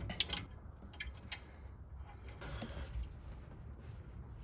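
A few light clicks from hand tools being handled at a brake caliper during bolt removal, a cluster in the first half-second and two more about a second in, then only a faint low background.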